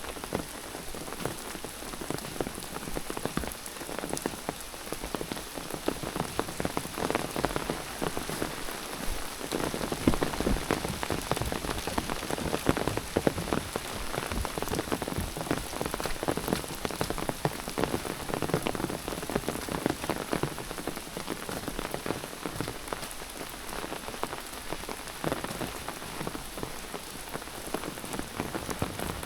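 Rain falling steadily, a dense run of small drop impacts on a surface close by.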